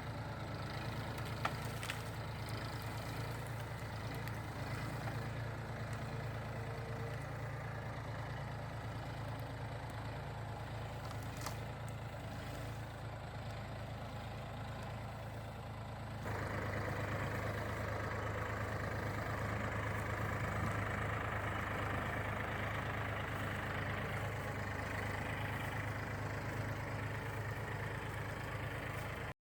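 Massey Ferguson tractor engine running steadily, then stepping up suddenly to a louder run about halfway through.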